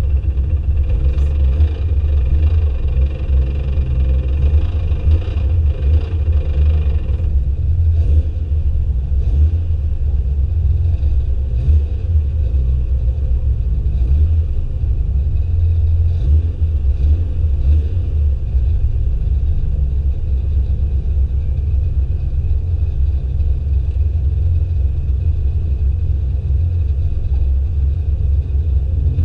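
Drift cars' engines running on the circuit: a loud, steady low rumble, with the higher engine noise easing off about seven seconds in.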